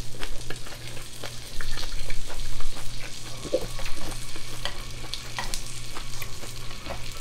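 Close-miked chewing of a mouthful of grilled pork makchang (pork intestine) in a leafy wrap: wet mouth sounds with many small clicks and crackles.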